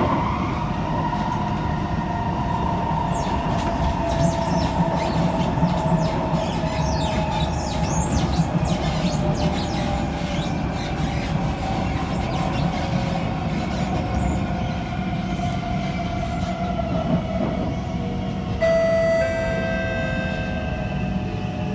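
On-board sound of a Kawasaki Heavy Industries C151 metro train refitted with permanent-magnet synchronous traction motors, its whine (the 'motorcycle sound') running over the rumble of the wheels on the track. The whine slowly falls in pitch as the train slows for the next station. Late on it switches suddenly to a sharper, steadier set of tones.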